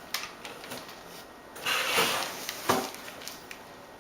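Packaging being handled while a plush toy is taken out of a mailed box: a few light clicks, a rustling rush of about a second in the middle, and a sharp knock shortly after.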